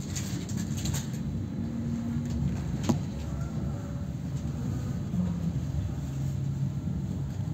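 Inside a double-decker passenger train's upper deck as it pulls away from a station: a steady low running rumble with a faint hum, and one sharp click about three seconds in.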